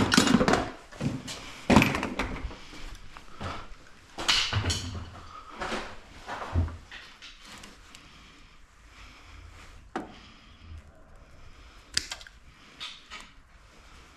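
Irregular knocks, thunks and clatter of tools and hardware being handled during garage door opener work, loudest at the start, then thinning out to single knocks near the end.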